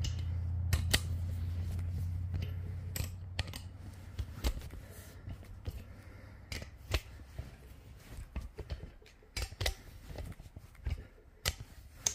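Scattered light metallic clicks and clinks of a 3/4 socket on a speed handle being turned to snug up bolts on a big-block Chevy engine block. A low hum fades out over the first few seconds.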